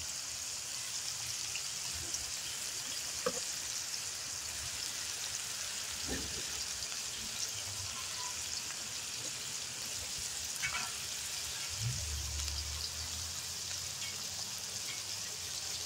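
Steady sizzle of freshly added diced onion and garlic frying in a wok, with a few faint knocks now and then.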